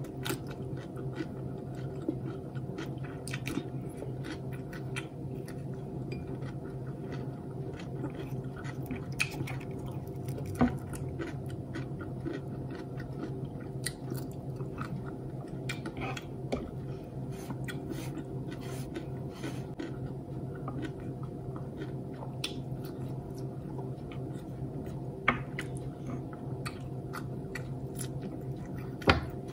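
Close-up chewing and mouth sounds of a person eating by hand, with many small wet clicks and a few sharper ones, over a steady low hum.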